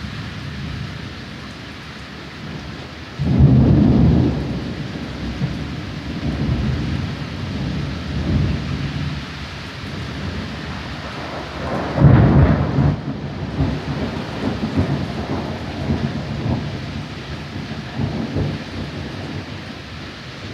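Thunder rolling over steady rain: two loud claps, about three seconds in and again about twelve seconds in, each rumbling on and fading, with lower rumbles between them.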